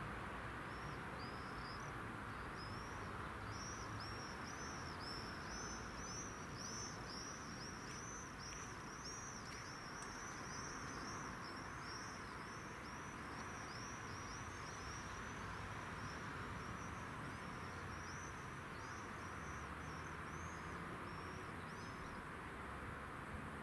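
A small bird repeating a high, arching chirp about twice a second for some twenty seconds, over a steady low background hum.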